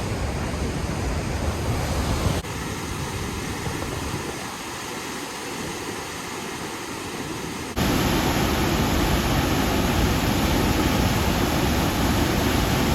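Fast-flowing waterfall: a steady rushing of water. It drops suddenly a couple of seconds in and comes back louder near the eight-second mark.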